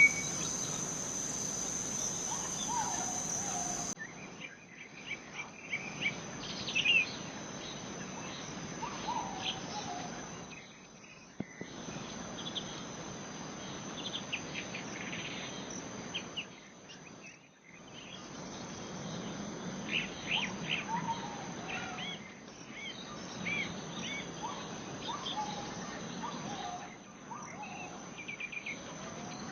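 Forest ambience: a steady, high-pitched insect drone, with scattered short bird chirps and gliding bird calls coming and going over it.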